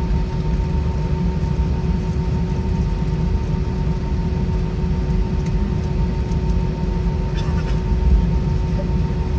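Steady cabin noise of an Airbus A320 with its IAE V2500-series engines running: a deep rumble with two steady whines on top, one lower and one higher.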